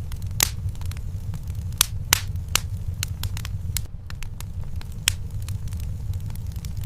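Wood fire burning in a fireplace: a steady low rumble of the flames with irregular sharp crackles and pops from the burning logs, the loudest about half a second, two seconds and five seconds in.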